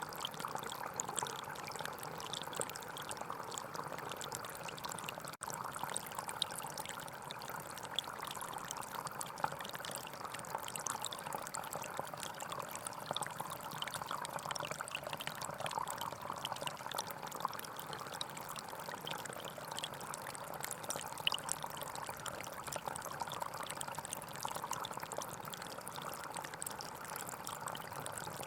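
Small forest stream flowing steadily over stones, a continuous splashing trickle, with a momentary gap about five seconds in.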